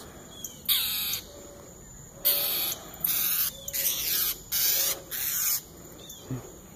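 A bird giving a run of about six loud, harsh, raspy calls, each about half a second long: scolding calls aimed at a cat.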